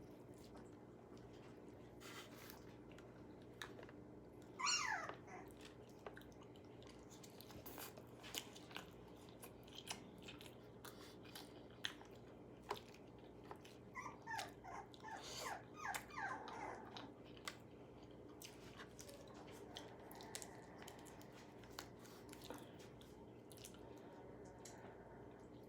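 A dog whining: one high falling cry about five seconds in, then a run of several falling cries a little past the middle. Scattered faint crunching clicks of food being eaten sound in between.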